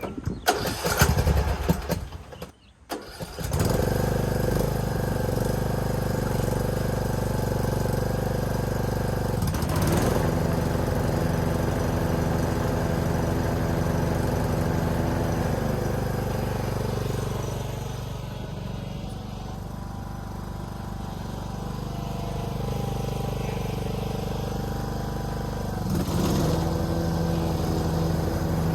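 John Deere S100 riding mower engine being started: the starter cranks it for about two seconds, it catches and then runs steadily. Its sound drops to a lower level partway through and comes back up near the end.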